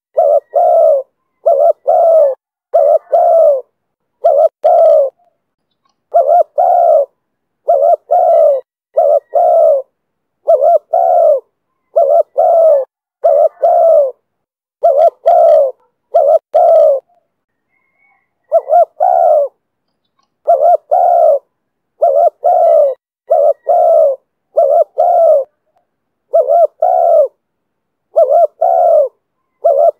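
Spotted dove cooing over and over in loud, low phrases of two or three notes, roughly one phrase every two seconds, in the voice that Vietnamese dove keepers call 'thổ thúc bổi'.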